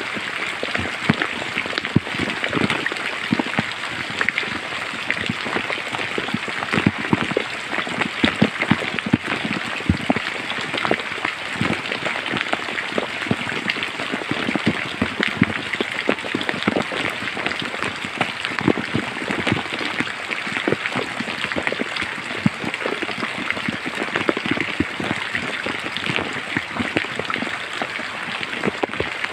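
Steady rain falling, a dense hiss of drops with many separate close drop hits.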